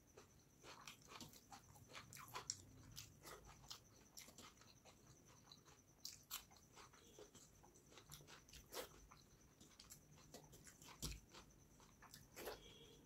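Quiet close-miked eating of rice and fish curry by hand: irregular wet chewing, lip smacks and mouth clicks, with the soft squish of fingers gathering rice on a steel plate.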